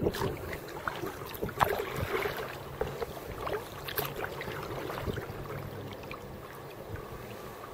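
Kayak paddle strokes splashing and dripping in the river, with water sloshing around the hull and a few sharp knocks, thinning out after about five seconds.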